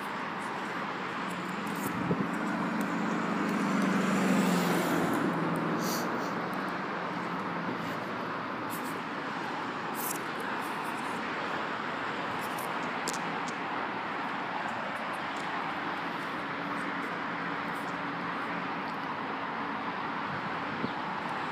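Road traffic going by: a steady hiss, with one vehicle passing a couple of seconds in, its engine hum swelling and fading away.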